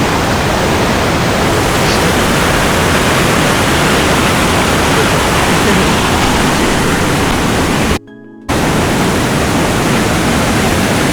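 Waterfall rushing close by: a loud, steady noise of falling water, broken by a brief gap about eight seconds in.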